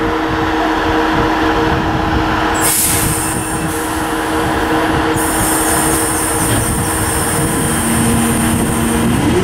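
Northern passenger multiple-unit train moving slowly past with a steady motor hum. A sharp hiss of air comes in about three seconds in, and near the end the motor whine begins to rise in pitch as the train picks up speed.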